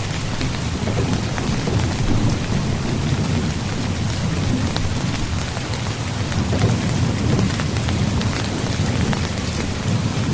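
Heavy rain falling on a tent's fabric: a dense, steady patter of drops with a deep low rumble underneath.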